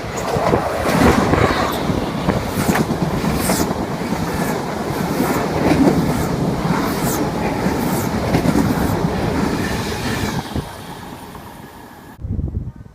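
A train passing close by at speed, a loud steady rush dotted with clicks from the wheels on the rails. It eases off after about ten seconds, then cuts off suddenly near the end.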